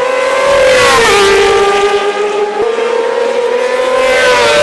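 Racing sport bike engine running at high revs. Its note drops sharply in pitch about a second in and again near the end, climbing slowly in between.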